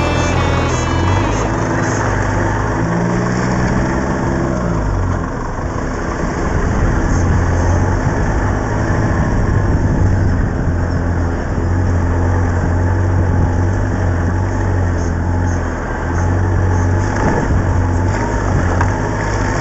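Land Rover Defender's engine running under way, with a brief rise and fall in engine pitch about three to five seconds in.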